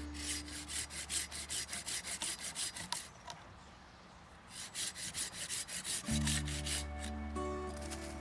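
Hand saw cutting through wood in quick back-and-forth strokes, about four a second. The strokes pause for about a second, then resume briefly.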